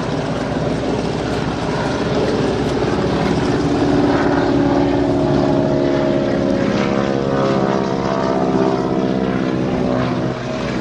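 Propeller floatplane flying, its engine a loud, steady drone throughout.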